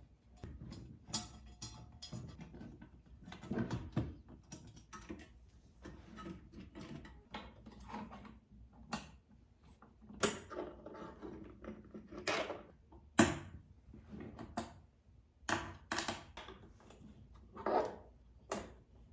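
Objects being handled at close range: a string of separate knocks, clicks and short rubbing or scraping sounds with brief pauses between them, the sharpest about four, thirteen and eighteen seconds in.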